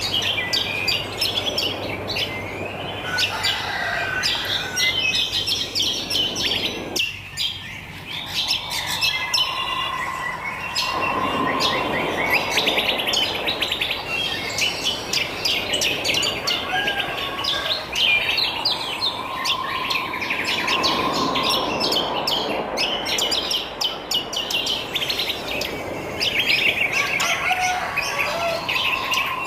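A chorus of many wild birds chirping and singing at once, dense and continuous. A lower, steadier note comes back about every ten seconds.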